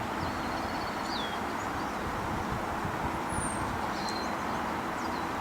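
Steady outdoor background noise with no clear source, and a few faint, high-pitched chirps from small birds scattered through it.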